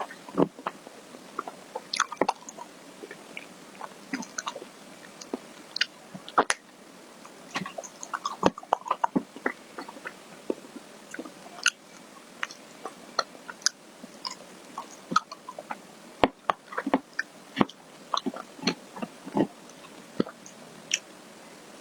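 Close-miked mouth sounds of someone eating ice cream: irregular wet smacks and clicks of lips and tongue as it is chewed and swallowed.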